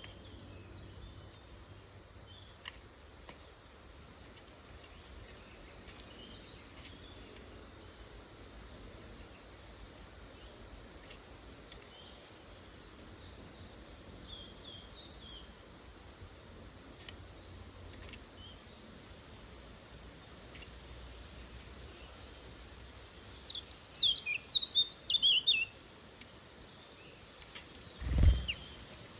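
Woodland ambience with faint scattered chirps from small songbirds. About three-quarters of the way in, a bird gives a loud, rapid run of high chirps lasting about two seconds. A short low thump follows near the end.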